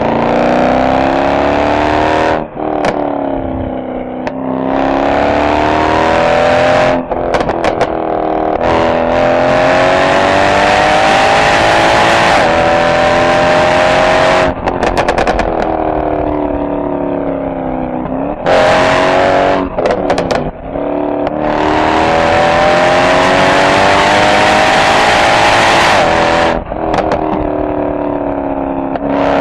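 Mercedes-AMG SL63's V8 exhaust under hard driving: the revs climb and fall again and again as the car accelerates, shifts and lifts off, with short bursts of crackling when the throttle closes, several times.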